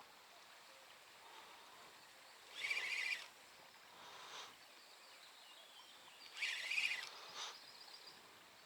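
A bird calling over a quiet outdoor background: two short, high calls about four seconds apart, the second followed by a fainter note.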